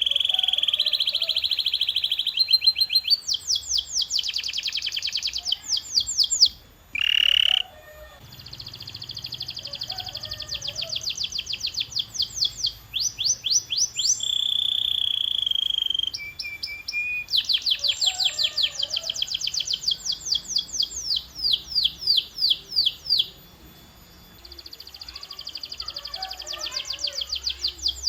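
Canary singing a long song of fast trills: runs of rapidly repeated notes, each run switching to a new note type every few seconds, with a couple of short breaks.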